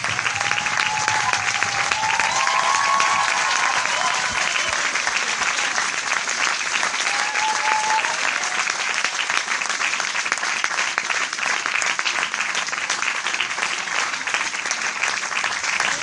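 Large audience applauding steadily, a dense, even mass of many hands clapping, with a few brief voices or whistles rising from the crowd.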